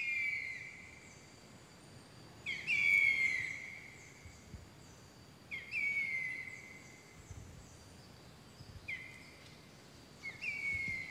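A bird calling over and over, five times, each call a short upward note leading into a long whistle that slides slowly down in pitch.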